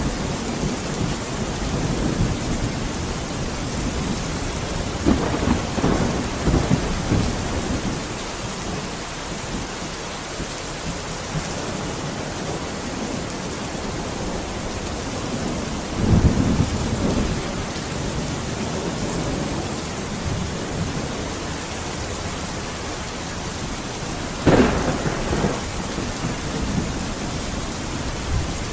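Steady heavy rain with rolls of thunder: a rumble about five seconds in, another midway, and a sharper clap near the end.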